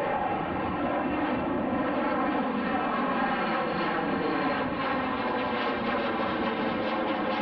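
Fixed-wing aircraft engines running steadily as the plane passes, a stack of engine tones sliding slowly lower in pitch over the first few seconds.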